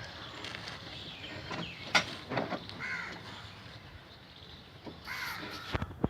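Crows cawing twice, with sharp knocks, the loudest about two seconds in and a few more near the end.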